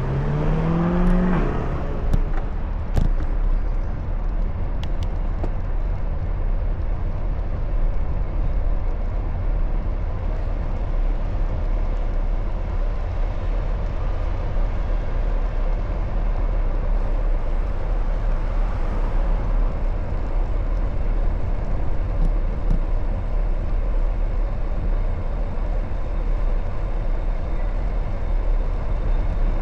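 Road traffic heard from a moving bicycle over a steady low rumble of wind on the microphone. A vehicle's engine or motor rises in pitch in the first second or so, and a couple of sharp knocks follow soon after.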